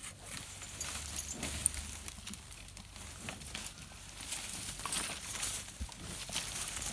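Cows eating breadfruit and jostling over it, heard as scattered, irregular crunches and knocks.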